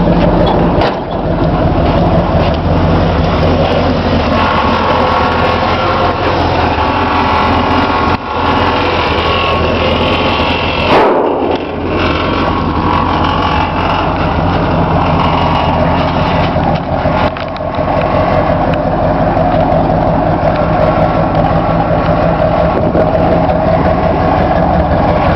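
1959 Chevy 348 W big-block V8 running just after a start, its note rising and falling over the first twelve seconds or so, then settling into a steady idle.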